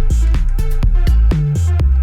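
Electronic pop synth bass, an 808-style sub bass from EZkeys, playing a line of low notes about four a second. Each note starts with a quick downward pitch drop. It plays over a programmed electronic dance drum groove.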